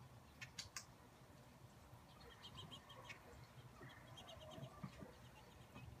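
Faint small-bird chirping: two quick runs of short, high chirps, one about two seconds in and one about four seconds in. Three sharp faint clicks come about half a second in.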